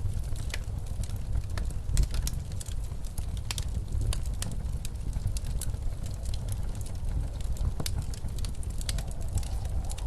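Wood fire crackling in a fireplace, irregular sharp pops and snaps over a low, steady rumble of blizzard wind.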